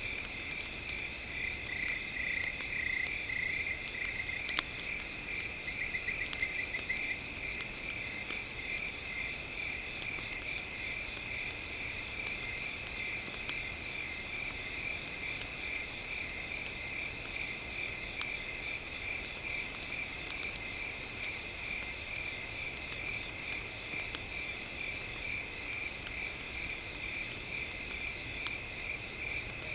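A night chorus of insects and frogs, trilling and chirping in steady, even pulses. Faint sharp crackles from a campfire are scattered through it, with one louder pop about four and a half seconds in.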